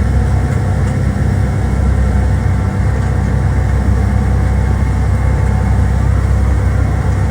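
Steady low engine rumble of a passenger ferry underway, with a constant rushing noise over it.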